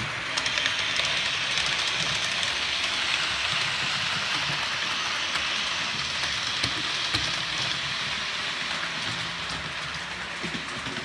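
Two Hornby OO-gauge HST model trains running around the track: a steady, loud racket of the motors and wheels rattling over the rails, with faint scattered clicks.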